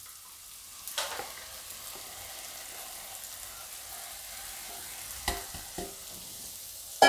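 Tomato-capsicum masala sizzling softly in a kadhai as crumbled paneer is tipped in on top of it, with a few light knocks of utensils against the pan.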